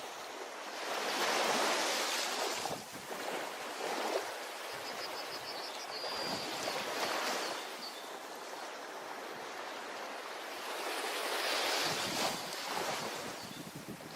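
Ocean waves breaking and washing up a beach as a steady surf noise, with two louder breakers, one about a second in and one near the end.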